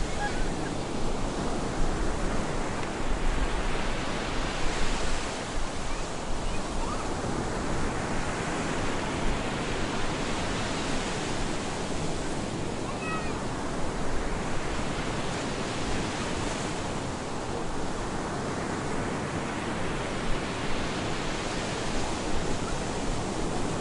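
Stormy surf breaking on a beach: a steady rush of water, with waves washing in about every five to six seconds.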